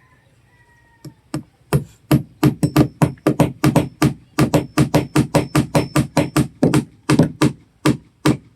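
Hammer driving nails into a wooden boat: a fast run of blows, about three a second, starting about a second in. Some blows leave a short, thin metallic ring.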